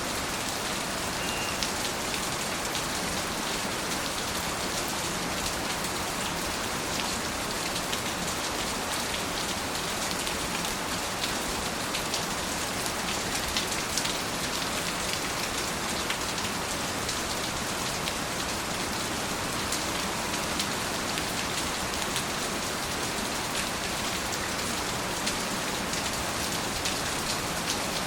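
Steady, even rain falling, with many small drop ticks on a surface.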